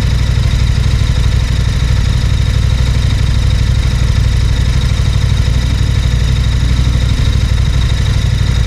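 Adventure motorcycle engine idling steadily.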